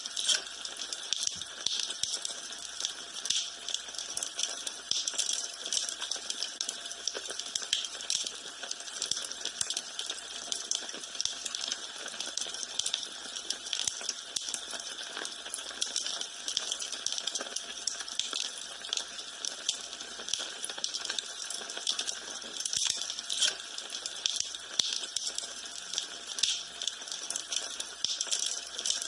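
Wood fire in a fireplace crackling: dense, irregular pops and snaps over a steady hiss.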